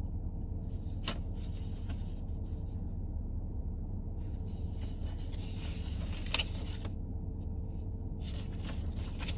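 Rustling and handling noises, in bursts about a second in, from about four to seven seconds and near the end, with a sharp click around six seconds, over a steady low hum.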